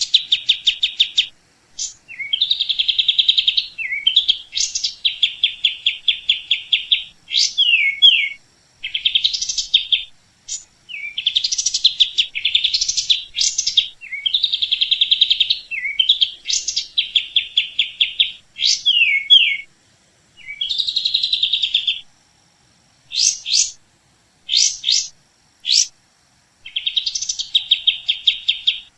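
A songbird singing, repeating a fast trilled phrase of about two seconds again and again with short pauses between, and a few short sharp notes later on.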